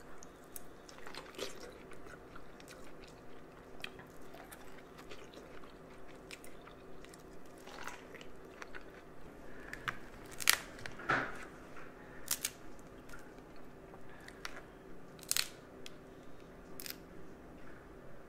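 Close-up chewing and biting of crab legs and corn, a steady run of soft mouth sounds, with several sharp cracks of crab shell being snapped apart, the loudest a little past ten seconds in and again around fifteen seconds.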